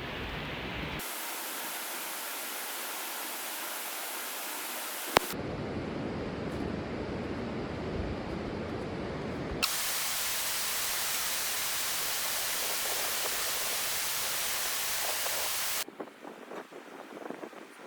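Rushing river water, a steady hiss across several clips that cut abruptly from one to the next, quieter near the end.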